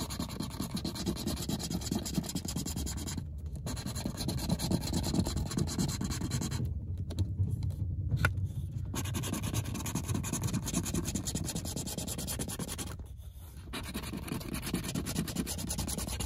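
Scratch-off lottery ticket being scratched: a steady rasping scrape across the coating, stopping briefly about three seconds in, again around seven to nine seconds in, and near thirteen seconds in.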